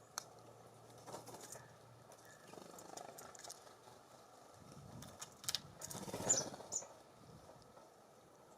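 Songbirds at a feeder: scattered sharp taps and scratches from pecking and landing, with a louder flurry of rustling and a brief high chirp about six seconds in.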